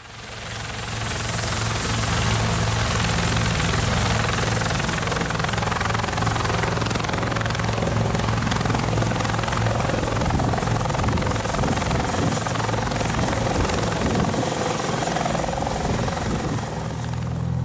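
Helicopter running steadily, with a thin high whine that creeps slightly up in pitch over a low drone. It fades in quickly at the start.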